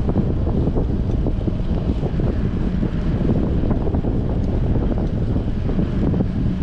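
Wind buffeting an action camera's microphone on a moving bicycle in strong wind: a steady low rumble.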